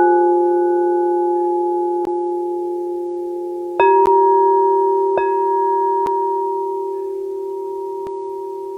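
Singing bowls struck one after another, each ringing with a long, slowly fading tone and overtones. A bowl of slightly higher pitch is struck about four seconds in, with a lighter strike about a second after.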